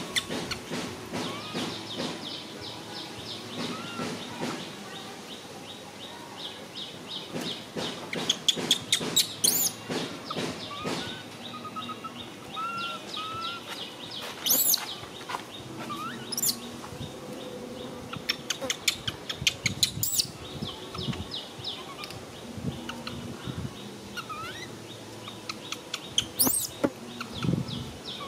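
Birds chirping and calling, with several sharp, high-pitched calls scattered through.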